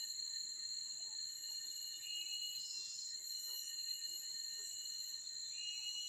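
Forest ambience: a steady high-pitched insect drone, with a short call heard twice, about three and a half seconds apart.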